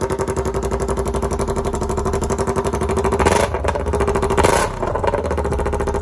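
Motorcycle fitted with an aftermarket exhaust running at idle, blipped twice on the throttle a little past halfway.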